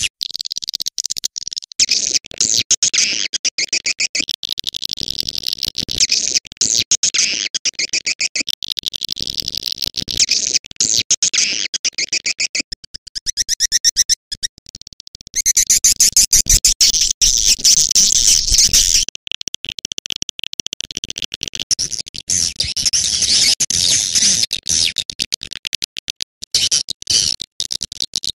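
Swiftlet calling sound: rapid, dense twittering chirps, a lure track played to attract swiftlets to nest in a swiftlet house. The chirping thins out briefly about halfway and comes back louder.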